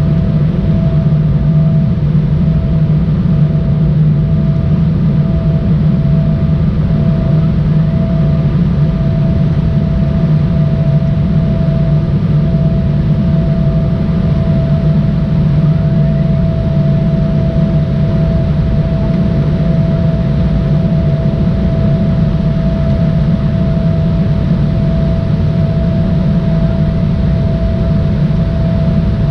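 Steady jet engine noise inside the cabin of an Embraer ERJ-175 airliner: a deep rumble with a steady whine from its turbofans.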